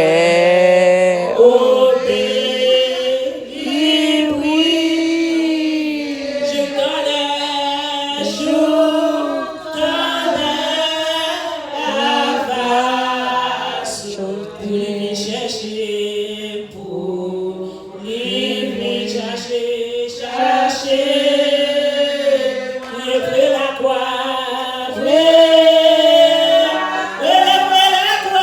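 A group of voices singing a worship song together, loud and continuous.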